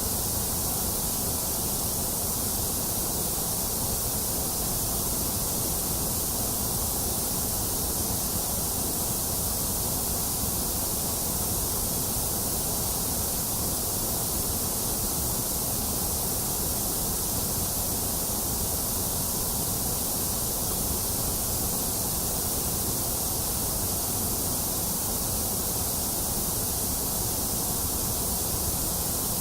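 Steady white noise: an even hiss that does not change or break.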